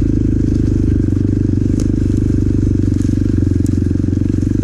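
Motorcycle engine running steadily at low trail speed, picked up by a mic inside the rider's helmet, with a couple of brief clicks.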